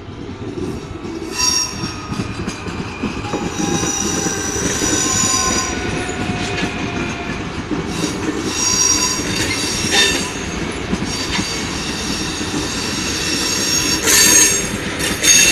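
SNCF Z24500 double-deck electric multiple unit running past on its arrival, its steel wheels squealing in several high tones that come and go over a steady rumble of the running gear, loudest near the end.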